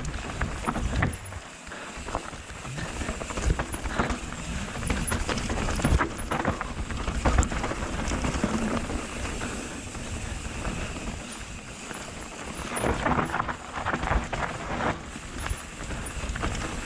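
Mountain bike descending a steep dirt trail: tyres running over the ground, with the bike clattering and knocking over bumps and a low rumble of wind on the action camera's microphone.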